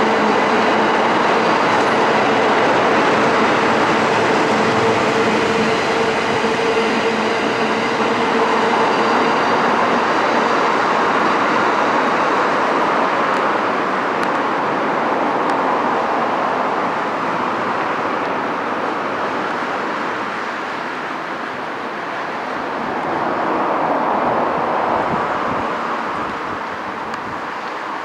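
Sobu Line electric commuter train running along the track: a loud, steady rolling rumble. A steady hum sounds through the first third and then fades out. The noise eases off gradually toward the end, swelling once briefly shortly before.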